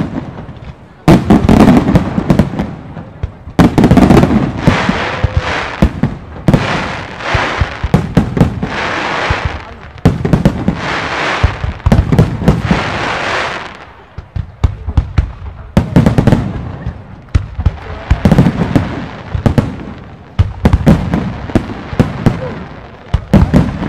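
Fireworks display: aerial shells bursting one after another in loud booms and bangs. A dense hiss builds in the middle and holds for several seconds before the bursts thin out and pick up again.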